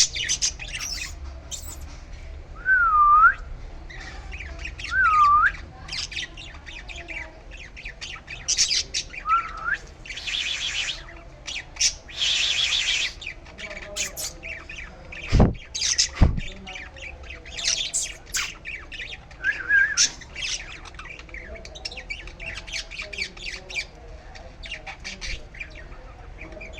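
Young birds chirping and squawking: many rapid, short high chirps throughout, with a few separate swooping whistled notes in the first third. Two brief hissy rustles come just before the middle, and two low thumps follow a few seconds later.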